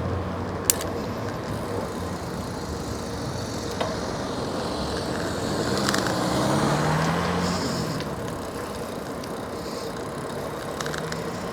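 Street traffic heard from a moving bicycle: steady road noise, with a car passing about six seconds in, its engine note rising. A single sharp click comes just under a second in.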